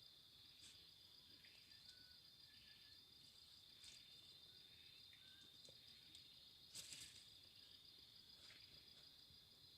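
Near silence with a faint, steady, high-pitched chorus of forest insects, and a few soft clicks, the loudest about seven seconds in.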